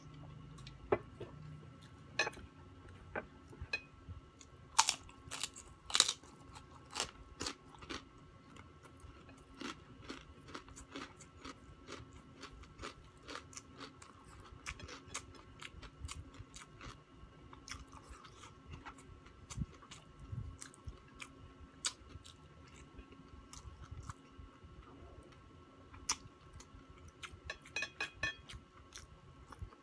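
Close-up crunching and chewing of crispy fried pork crackling (chicharon), many sharp crackles, the loudest about five and six seconds in, with a quick cluster of small clicks near the end.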